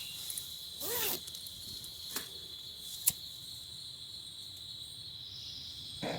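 Crickets chirring in one steady high-pitched trill, with a brief swishing sound about a second in and two sharp clicks about two and three seconds in.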